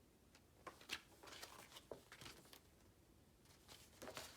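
Faint rustling and a few soft clicks of paper handling, like the page of a book being turned, over a quiet room.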